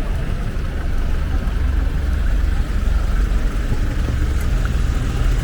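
Steady low rumble of road traffic with street noise.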